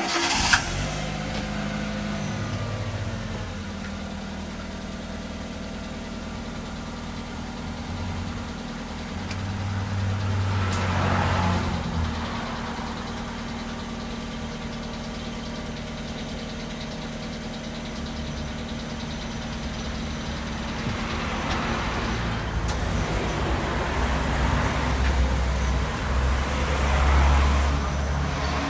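A knock, then a car engine running steadily as the car drives off, growing louder twice as it speeds up.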